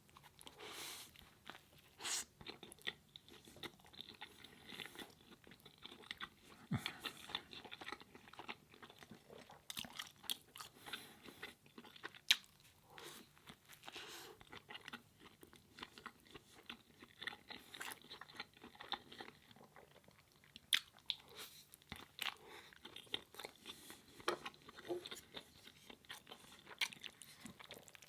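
A person chewing and biting food up close, with irregular soft clicks throughout.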